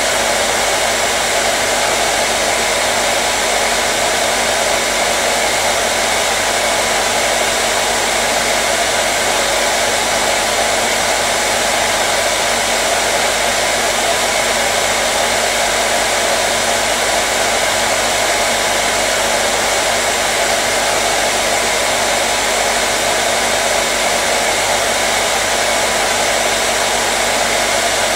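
Hair dryer running at a constant setting: a steady, unbroken rush of air with a faint motor hum.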